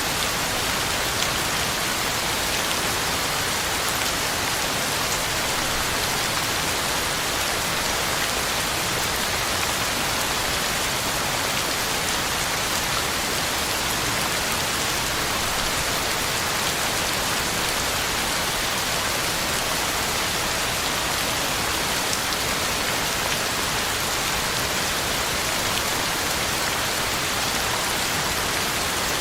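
Heavy rain falling steadily on the ground and leaves, an even hiss of rain with close drops pattering.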